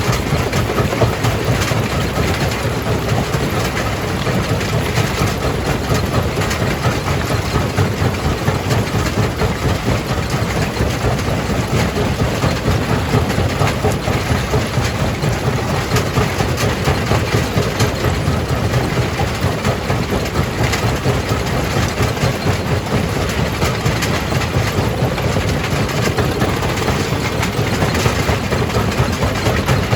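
Jaw crusher running and crushing rock: a steady, heavy mechanical rumble with constant knocking and clattering of stone.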